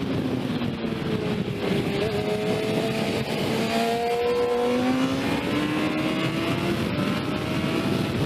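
Sport motorcycle engine pulling under acceleration, its pitch climbing steadily through the revs, under heavy rushing wind noise on the microphone.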